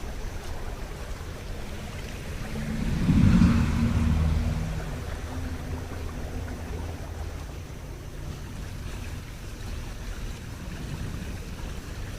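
A heavy engine picks up revs about three seconds in and eases off again over a steady low rumble.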